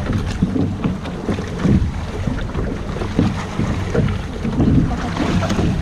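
Wind buffeting the microphone aboard a small sailboat under way: an uneven low rushing that rises and falls in gusts, with a few faint knocks.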